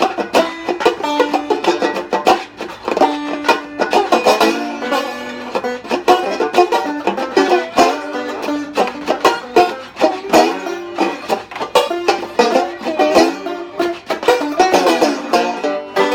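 Banjo being picked: a quick, steady run of plucked notes.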